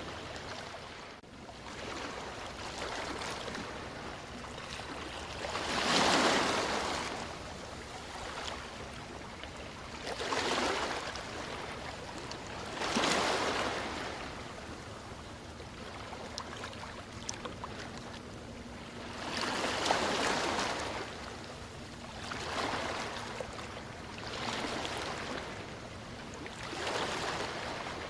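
Sea waves washing in and drawing back, a steady hiss that swells into a louder surge every few seconds.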